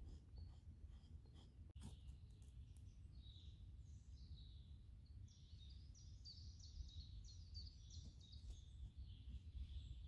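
Small birds singing, with a quick run of high chirps from about five seconds in, over a faint low rumble. A few light clicks come near two seconds in.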